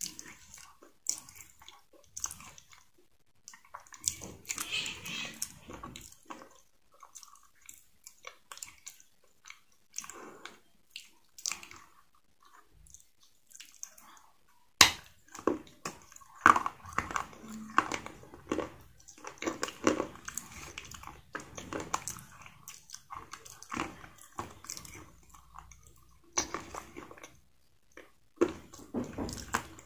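Close eating sounds of KFC fried chicken being bitten and chewed: irregular crunching and crackling of the fried crust with wet mouth sounds, and one sharp crunch about halfway through.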